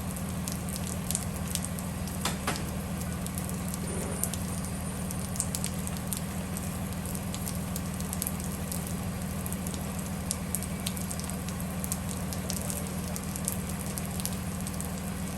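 Steady low drone of a bus's engine heard from inside, with rain pattering and many small crackling ticks over it.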